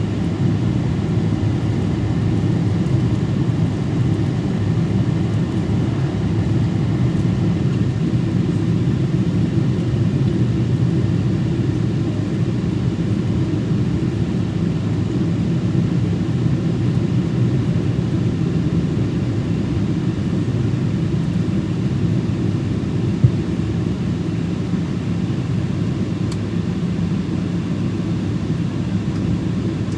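Steady cabin rumble inside a Boeing 777 in flight, from its jet engines and the airflow over the fuselage. A single short click sounds about two-thirds of the way through.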